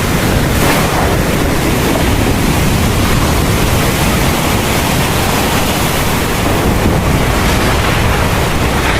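Heavy thunderstorm rain falling steadily, a dense, even rush of rain noise.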